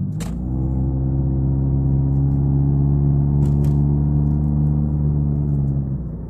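Steady low drone from a car at constant engine speed, heard inside the cabin: one unwavering pitch with a stack of overtones. It sets in a moment in and stops shortly before the end.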